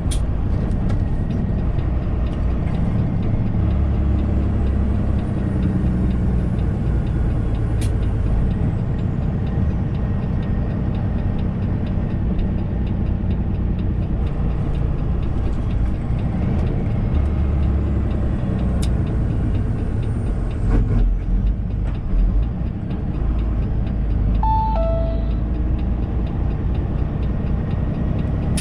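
Semi truck's engine and road noise heard from inside the cab while driving, a steady low drone. About 24 seconds in, a short two-note chime, the second note lower.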